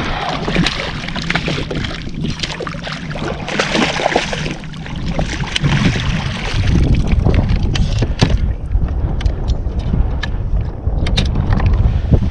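Water sloshing and splashing around a kayak, with a low rumble of wind on the microphone. Short sharp clicks and splashes come often in the second half.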